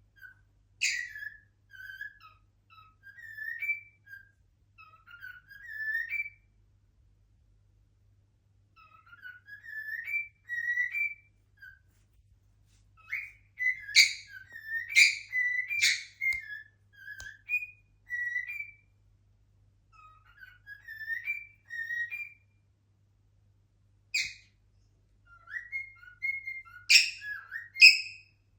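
Cockatiel whistling its song: short rising whistled phrases repeated in groups with pauses between them, broken by sharp, short chirps about a second in, several around the middle and a few near the end.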